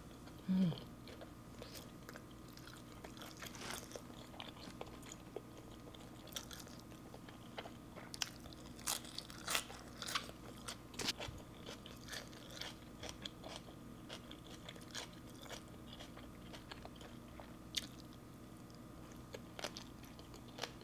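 Close-up chewing and biting of grilled chicken wing, with scattered wet crunches and mouth clicks. A short low hum, like a closed-mouth "mm", about half a second in is the loudest sound.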